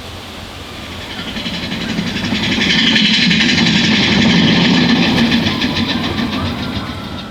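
Big Thunder Mountain Railroad mine-train roller coaster passing by on its track, wheels rumbling and clattering in a quick, even rhythm. It swells over a couple of seconds, is loudest mid-way, then fades as the train moves off.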